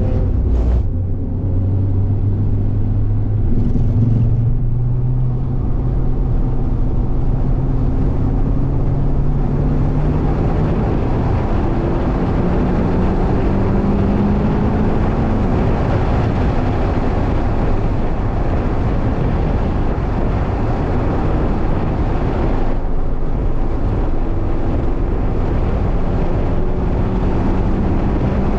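Mazda MX-5's four-cylinder engine heard from inside the cabin under hard acceleration, its note climbing through the revs and dropping back at each upshift, about a second in and again about halfway through, over steady tyre and wind noise.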